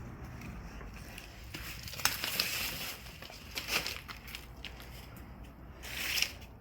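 A bird of paradise leaf crackling and tearing as a husky chews and pulls at it, in irregular bursts that are loudest about two seconds in and again near the end.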